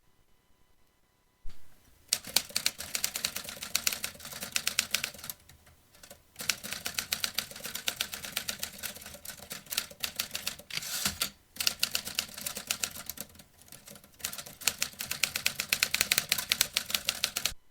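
Vintage manual typewriter being typed on: quick runs of sharp keystrokes with brief pauses between them. It starts about a second and a half in and cuts off suddenly near the end.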